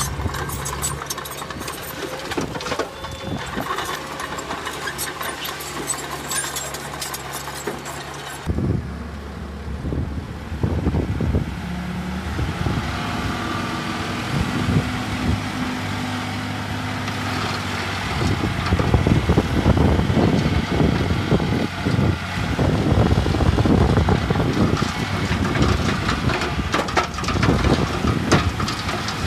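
Heavy diesel construction machinery running, with repeated knocks and clanks; the sound changes abruptly about eight seconds in.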